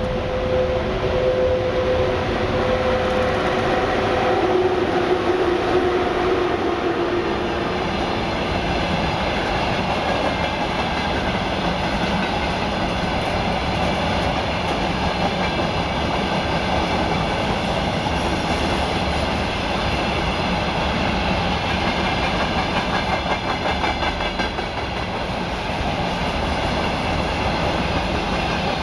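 A long freight train on the Trans-Siberian Railway passing at speed. There is a steady two-tone whine through the first seven seconds or so, then a continuous rumble with the clickety-clack of the wagons' wheels over the rail joints.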